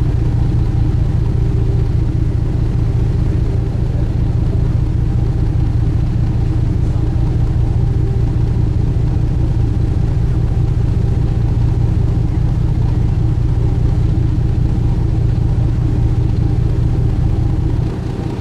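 Sightseeing boat's engine running steadily at cruising speed, a deep even drone heard on board with a faint wash of water and wind.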